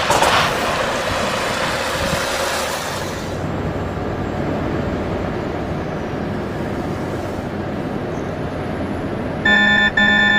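Heavy vehicle running noise with a hiss that fades out about a third of the way in, then a loud, rapidly repeating electronic warning beep starting near the end.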